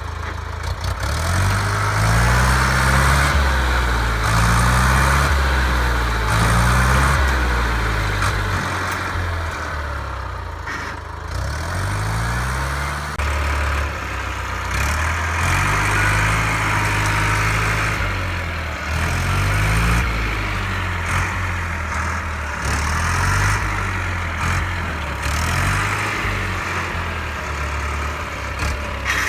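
Lamborghini 684 DT tractor's diesel engine working under load while pulling at a tree, its pitch rising and falling again and again as the revs climb and sag.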